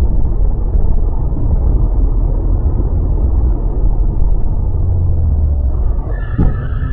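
Loud, steady low rumble of a moving car's road and engine noise, as picked up by a dashboard camera. Near the end, a brief higher pitched tone sounds over the rumble.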